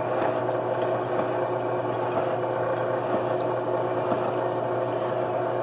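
Milling machine running a slitting saw at about 60 RPM: a steady mechanical hum with several held tones and no change in level.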